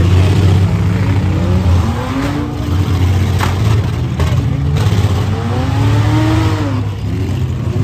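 Demolition derby cars' engines revving hard over a steady low rumble, the pitch rising and falling twice, with a few sharp bangs of cars hitting each other around the middle.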